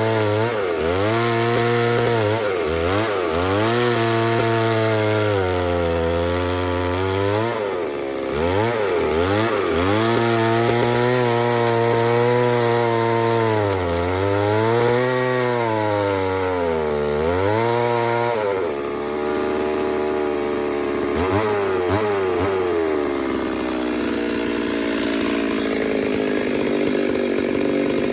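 Chainsaw cutting wood, its engine pitch sagging under load in each cut and rising again as it frees up, several times over. For the last third the engine tone fades into a steadier, hissier cutting noise.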